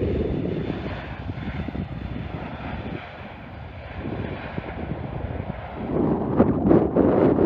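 Airliner engine noise, a steady low rumble with a faint whine, easing off around the middle and then swelling again. Wind buffets the microphone more heavily near the end.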